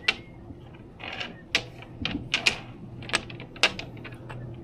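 Domino tiles clicking on a table as pieces are set down and handled: a string of irregular sharp clacks.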